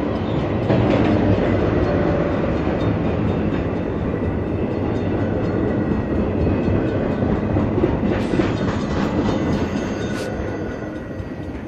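Train running along the track, its wheels clattering over the rails with a steady rumble and a few sharp clicks, fading away near the end as it moves off.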